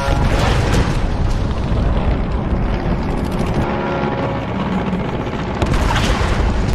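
A loud boom at the start, then a heavy rumbling that carries on, and a second sharp blast about six seconds in, typical of explosions. Music plays faintly underneath.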